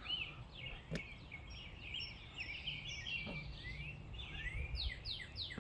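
Small songbirds chirping and singing, with a quick run of falling notes repeated near the end, over faint low background noise.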